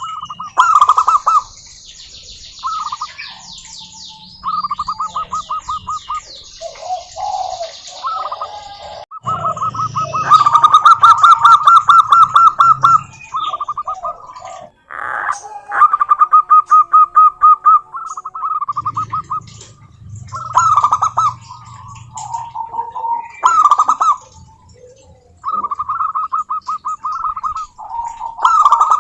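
Zebra doves (perkutut) calling in turn: repeated bursts of rapid, evenly spaced cooing notes, each burst lasting one to three seconds. Higher thin chirps and trills from other birds sound between the bursts.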